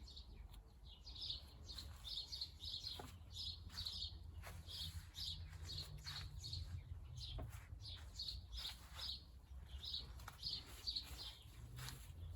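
Small bird chirping over and over, short high chirps about two or three a second, with a few faint clicks and a low hum underneath.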